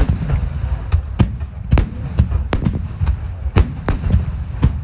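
Large aerial firework shells, shakudama (about 30 cm), bursting in quick succession in a rapid-fire barrage. There are about ten deep booms, irregularly spaced roughly half a second apart.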